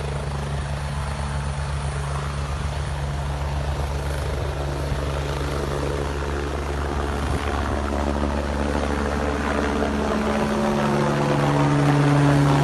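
Helicopter running on the ground, a steady rotor and turbine sound that gets louder in the last few seconds.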